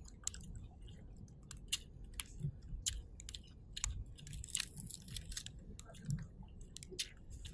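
A person chewing food close to the microphone, with many short sharp clicks and crunches, over a low steady rumble.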